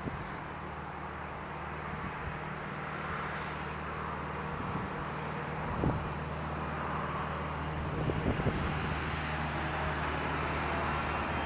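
Jet engines of an approaching Boeing 777-200LR, a steady rushing roar that slowly grows louder as the airliner comes in to land, with a few short thumps of wind on the microphone.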